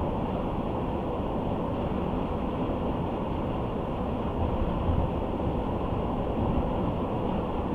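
Car driving along a road: a steady, low rumble of tyre and engine noise.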